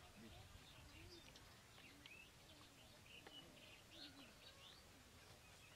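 Near silence with faint bird chirps and calls scattered through it.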